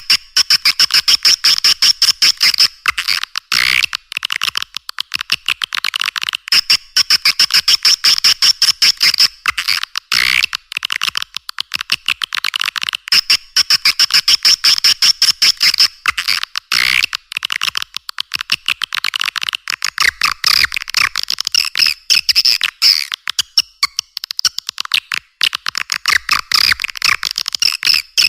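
Swiftlet lure call, a recording of rapid high-pitched chirping trills played to draw swiftlets into a nesting house. It comes in long, dense runs of clicking chirps broken by short gaps, thin with no low end.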